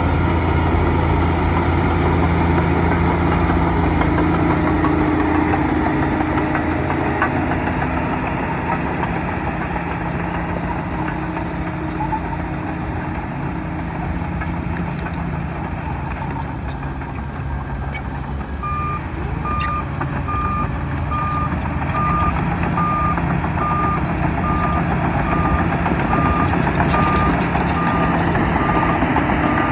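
Bulldozer's diesel engine running under load, easing off midway and building again. From about two-thirds of the way in, its backup alarm beeps steadily, about once a second, as the machine reverses.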